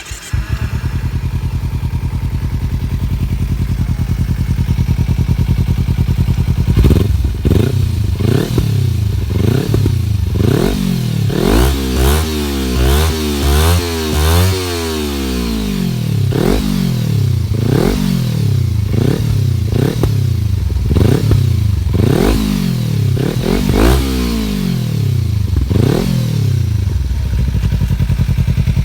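Kawasaki Z250 motorcycle engine breathing through an aftermarket Akrapovic exhaust. It starts and idles steadily for about six seconds, then is blipped again and again, about once a second, with one longer, higher rev in the middle.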